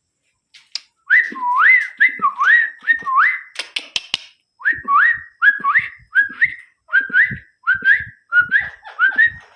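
A pet ringneck parrot (rose-ringed parakeet) whistling over and over, about two short swooping whistles a second, each dipping in pitch and sweeping back up. There is a short break with a few clicks partway through.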